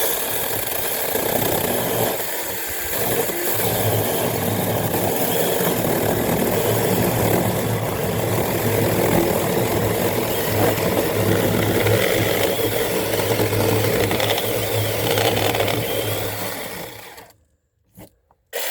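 Battery-powered mini chainsaw cutting into a log. The motor hums steadily under the chain's rasping noise, then stops about a second before the end with a brief near-silence and one short sound.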